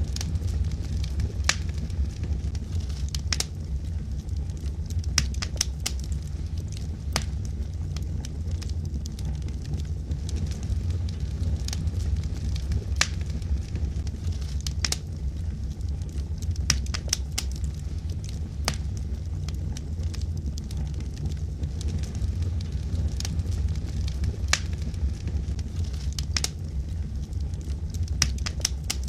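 Wood fire burning in a fireplace: a steady low rumble of flames with sharp crackles and pops from the logs every second or so.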